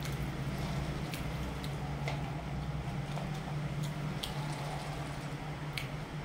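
A steady low hum in a small room, with a handful of faint, scattered wet clicks and smacks of chewing.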